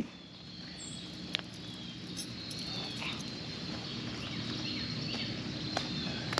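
Outdoor insects and birds chirping in high, repeated trills over a low steady hum, with one sharp knock at the start and another about a second and a half in.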